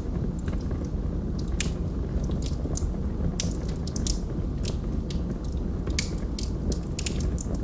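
Wood fire burning in a fireplace: a steady low rumble of flames with irregular sharp crackles and pops from the burning logs, about a dozen in a few seconds.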